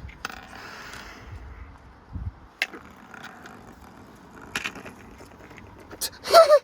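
Precept washing machine running with a coin loose inside, giving sharp clicks and knocks every couple of seconds over a faint steady running noise. A short loud exclamation comes near the end.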